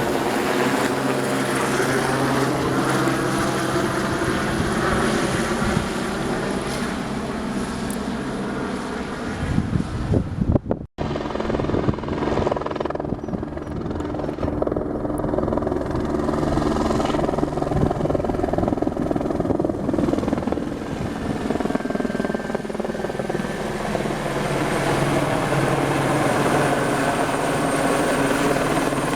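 Helibras Esquilo single-engine helicopter running, its rotor and turbine making a loud steady sound with low rotor tones and a wavering sweep in pitch. The sound cuts out abruptly for an instant about eleven seconds in, then carries on.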